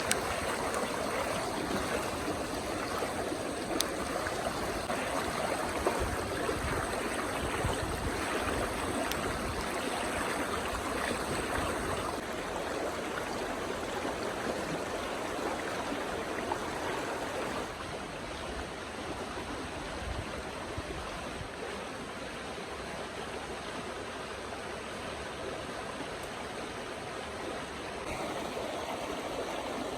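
River water flowing and rushing steadily, a little quieter from about halfway through.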